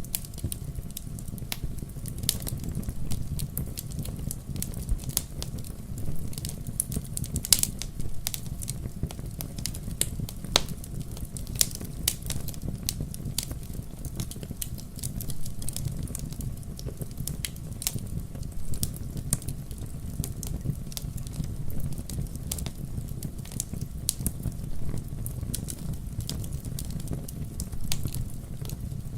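Wood fire in a fireplace: logs burning with irregular sharp crackles and pops over a steady low rumble of the flames.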